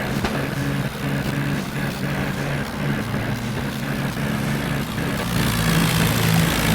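Tractor diesel engines running steadily, growing a little louder about five and a half seconds in.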